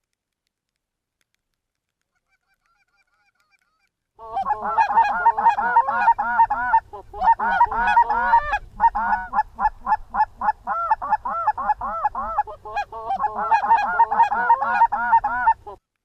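Rapid Canada goose honking and clucking, many calls a second in a dense run. It cuts in about four seconds in and stops abruptly near the end, with a low wind rumble under it.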